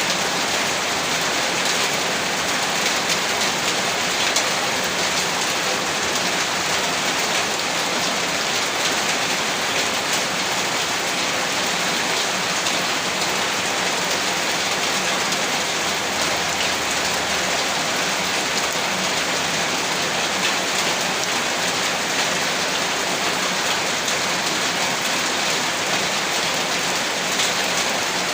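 Heavy rain falling on a rooftop, a dense, even patter that holds steady throughout.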